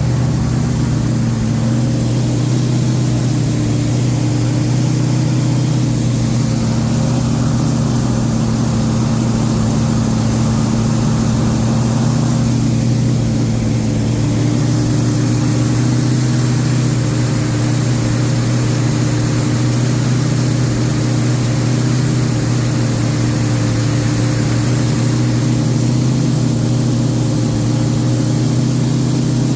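Chrysler 440 Magnum big-block V8 in a 1973 Dodge Charger Rallye running at a steady speed during its break-in run after engine work.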